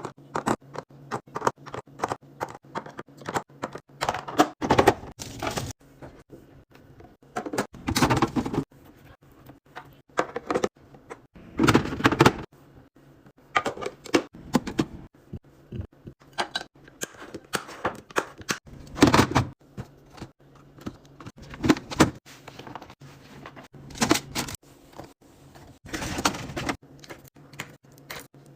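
Containers and bottles being handled and set down while a fridge is restocked: a quick run of plastic and glass clicks, taps and clacks, broken every few seconds by a short rustle or slide of packaging or a shelf.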